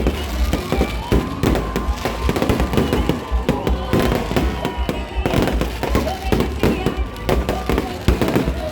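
Bonfire crackling with dense, rapid pops and snaps, over background music and voices.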